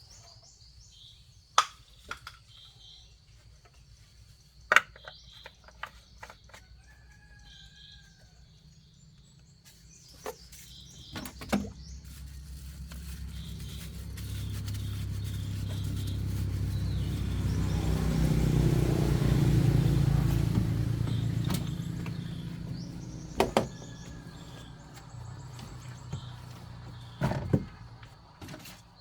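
Birds chirping and a few sharp clinks, with a low engine rumble that swells over several seconds to a peak about two-thirds of the way through and then fades away, as a vehicle passing by.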